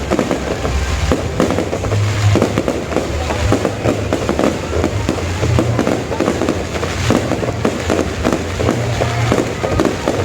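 Fireworks going off in rapid, dense succession: many bangs and crackles overlapping, with no break. Music with a low bass line plays underneath.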